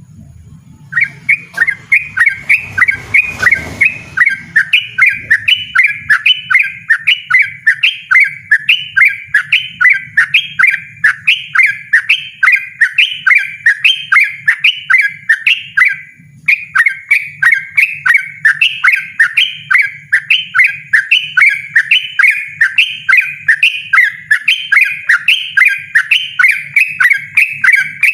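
Yellow-vented bulbul (trucukan) singing loudly in a fast, insistent run of the same short note over and over, about two to three notes a second, breaking off briefly about halfway through before resuming. A low hum runs underneath, and a brief rush of noise comes a few seconds in.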